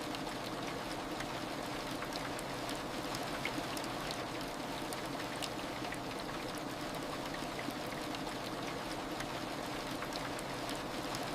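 Heavy rain falling steadily, with scattered individual drops ticking through the constant hiss: a rain ambience track.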